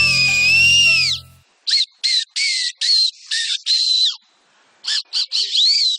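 Shrill, squawky whistling blown on an improvised whistle: one long note under the end of plucked-string music, then a string of short squawks, some bending in pitch.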